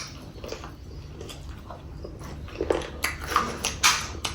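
Chewing and wet mouth sounds of someone eating chicken curry and rice: short smacks and clicks, more frequent in the second half.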